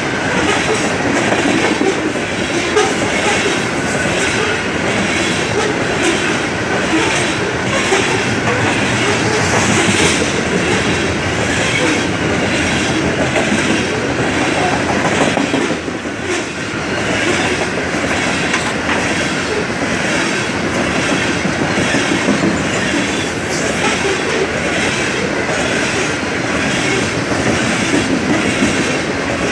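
Coal train's aluminium gondola cars rolling past close by: a steady rumble of steel wheels on the rails with an ongoing run of regular clicks.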